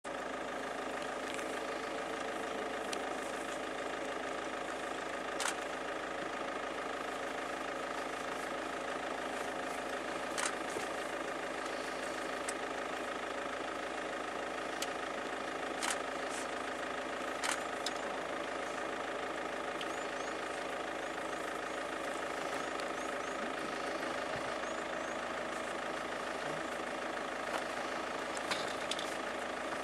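Vehicle engine idling steadily, with a few sharp clicks over it.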